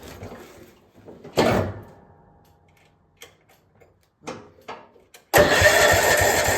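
A few knocks and clicks, then about five seconds in the small tractor's engine suddenly starts and runs loud with a rapid pulsing beat: a cold start on full choke and half throttle.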